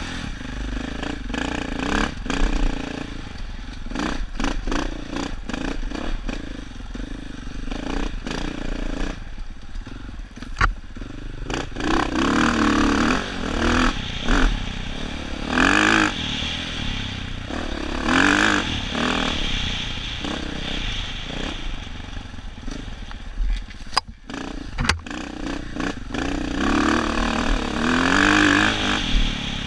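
Dirt bike engine revving up and down again and again, with frequent clattering knocks from the bike working over rough, rocky trail.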